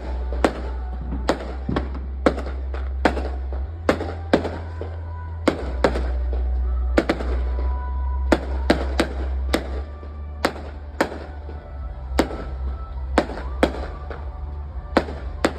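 Fireworks going off in a rapid, irregular string of sharp bangs, about two a second, over a steady low rumble.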